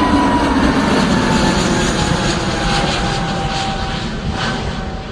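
Airliner's engines going past close by: a loud rumble with a whine that falls slowly in pitch as it passes, fading toward the end.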